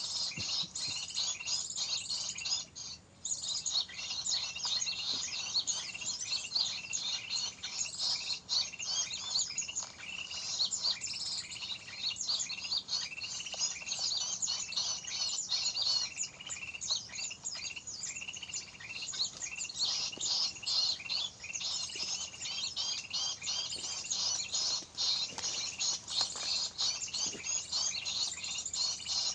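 Many small birds chirping together, a dense run of rapid, high overlapping chirps with a brief lull about three seconds in.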